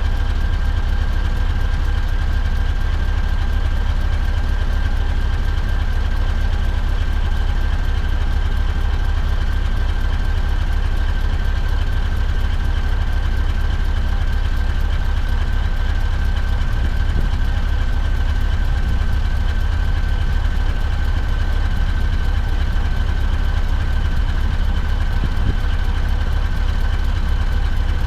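Scania V8 diesel truck engine running steadily, a strong low rumble with a thin high whine above it that drifts slightly lower.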